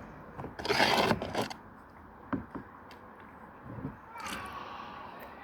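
Homemade potion of water and leaves being mixed in a container: a scraping swish about a second in, followed by a few soft knocks.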